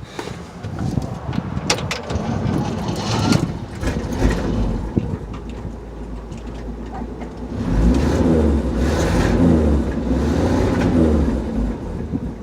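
Chevrolet 250 straight-six with a Rochester single-barrel carburetor idling cold on the choke, running a little rough. The sound swells for a few seconds about eight seconds in.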